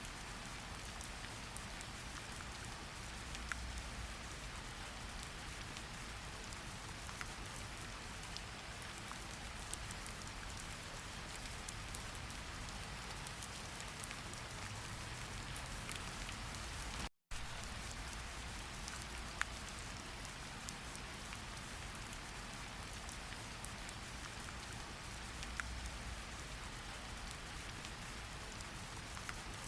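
Steady rain falling, an even hiss with scattered ticks of individual drops. The sound cuts out completely for a split second a little past halfway.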